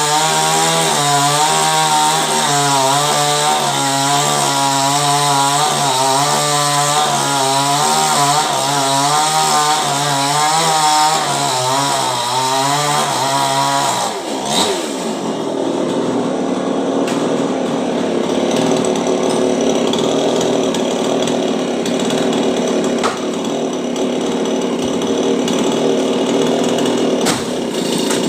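Chainsaw running at high revs, its pitch repeatedly rising and falling as it works. About halfway through the revs drop sharply and it runs on at a lower, steadier speed.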